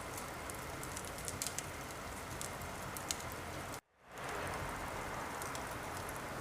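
Wood fire crackling in a fireplace: a steady hiss with small sharp pops and snaps scattered through it. The sound cuts out completely for a moment about four seconds in, then comes back.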